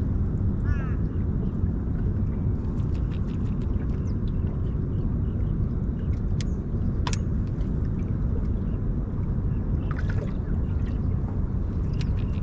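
A steady low rumble around an open fishing boat, with a few faint clicks near the middle and a sharper click about seven seconds in.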